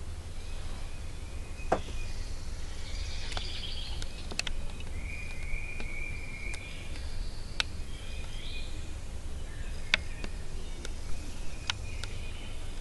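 Outdoor woodland ambience: small birds chirping with short high calls and one longer call in the middle, over a steady low rumble, with several sharp clicks scattered through.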